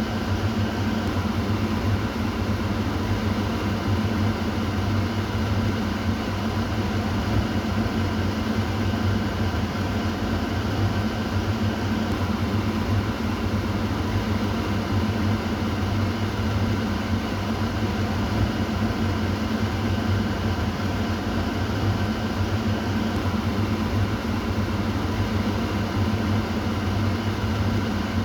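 Kitchen exhaust fan running steadily: a constant low hum with fainter steady tones above it, over the even rush of moving air.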